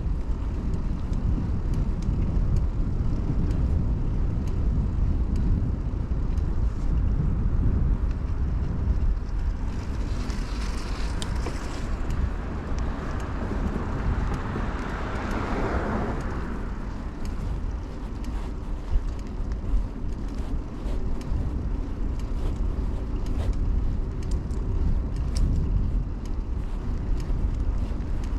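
Bicycle ride on pavement: steady low wind rumble on a chest-mounted camera and tyre noise, with a passing motor vehicle swelling and fading from about ten to seventeen seconds in.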